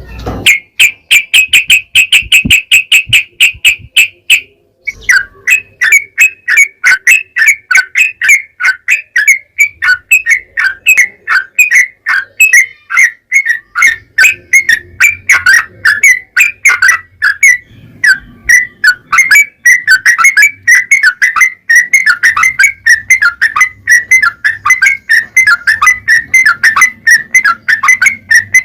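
Yellow-vented bulbul (trucukan) song: a quick, even trill of high notes for about four seconds, then a long run of rapid chattering, falling notes repeated several times a second.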